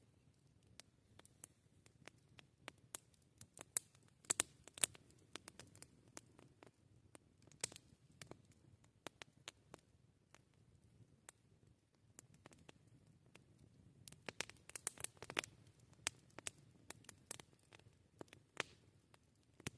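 Wood campfire crackling: irregular sharp pops and snaps over a faint low rumble, with denser flurries of pops about four seconds in and again around fifteen seconds.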